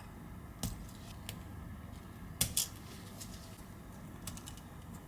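Small sharp clicks and taps of metal tweezers working on an iPhone 11's flex-cable connectors as they are unplugged. The clicks are sparse, about half a dozen, and the loudest two come close together about two and a half seconds in.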